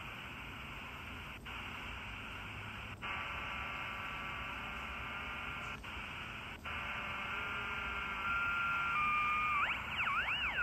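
A 4732 miniature radio giving shortwave static hiss, broken by a few brief dropouts. Steady whistling tones come in partway through and sweep up and down near the end, as on a shortwave band with poor reception.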